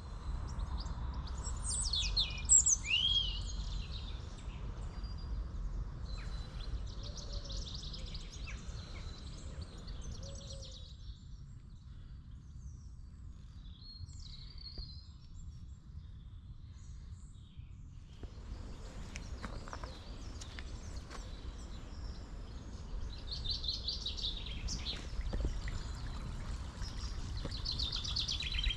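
Wild birds singing and calling, high chirps and gliding whistles, over a steady low rumble. The birdsong thins out midway and picks up again near the end.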